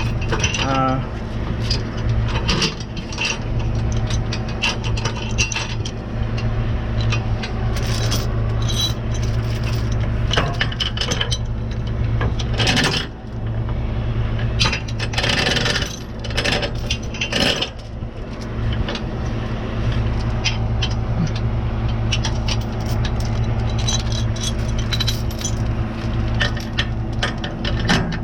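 Tow truck engine idling steadily, with repeated metallic clinks, clanks and rattles of towing gear being handled during the hookup.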